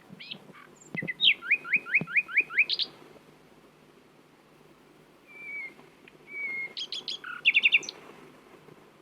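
Nightingale singing: a fast run of about eight sharp downslurred notes, then after a pause two short whistles and a quick burst of notes.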